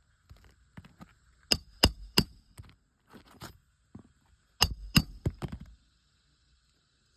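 Hammer driving roofing nails into an asphalt shingle roof: two sets of about three sharp blows a few seconds apart, with smaller taps and scrapes between.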